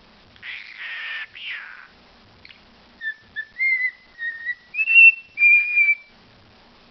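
Pet talking bird giving a short raspy call, then whistling a string of about six short clear notes that step up a little in pitch toward the end.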